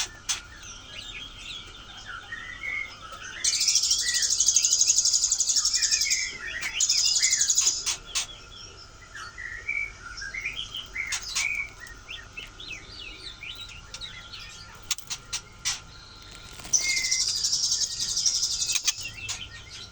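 Songbirds chirping and calling in quick short notes throughout. A loud, high, dense buzz comes in twice, for about three seconds each time, over a faint steady high tone.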